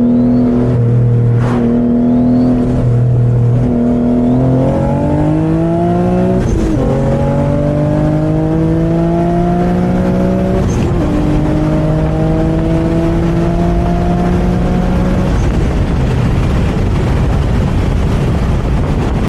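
Twin-turbo Infiniti G37's VQ37 V6 accelerating through the gears. The note is steady at first, then climbs in pitch, drops sharply at two gear changes and climbs again each time, then eases off near the end, leaving road and wind noise.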